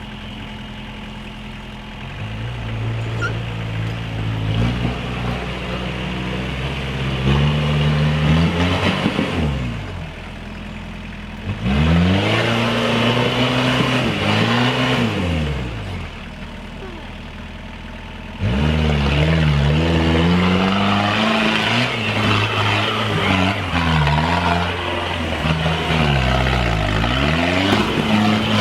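Off-road vehicle engine revved up and down again and again in bursts, its pitch climbing and falling, settling back to a lower steady run twice in between.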